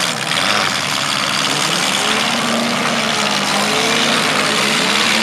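Compact demolition-derby cars' engines revving, several at once, their pitch rising and falling over a loud steady din.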